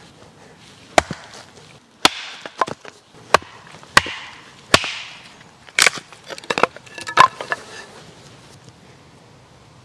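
Wood being chopped with a hand-held blade: about nine sharp strikes at irregular spacing, stopping a couple of seconds before the end.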